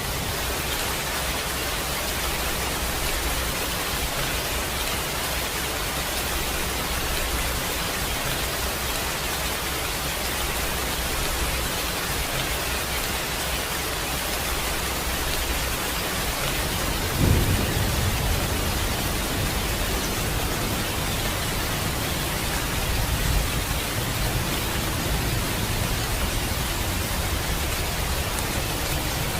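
Steady rain with an even hiss, and a low rumble of thunder that swells suddenly about seventeen seconds in, followed by a fainter rumble a few seconds later.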